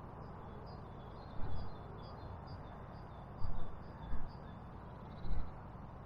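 A small songbird singing a series of short, high repeated notes, about two a second, that stops about two-thirds of the way through. A steady outdoor rush sits underneath, with four brief low thumps.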